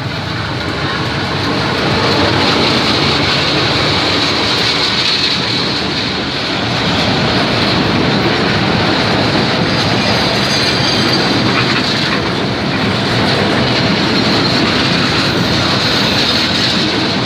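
A train rolling past close by: steady, loud clatter of wheels on the rails, building over the first couple of seconds, with a high screech from the wheels swelling at times.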